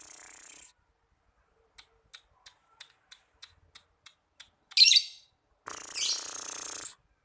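Lovebird singing its ngekek: a long chattering call that stops under a second in, then a run of about ten short clicking chips, a loud shrill squawk about halfway, and another chattering stretch of about a second near the end.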